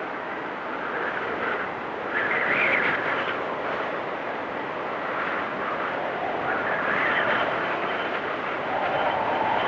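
Blizzard wind gusting, swelling and fading every couple of seconds with a rushing, howling tone.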